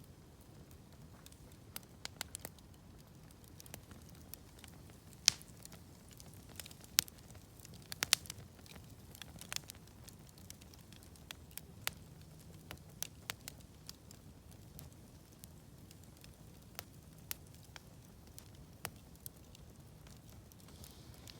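Wood campfire crackling, with sharp, irregular pops scattered through it; the loudest come about five, seven and eight seconds in.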